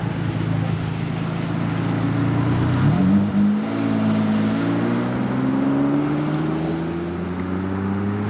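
Car engines running: one engine's note jumps up about three seconds in and then climbs slowly as it accelerates, over another engine's steady low running.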